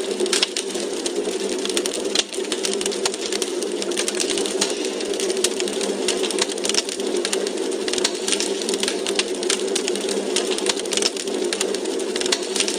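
Wood fire crackling in a fireplace: dense, irregular small pops and snaps over a steady hiss.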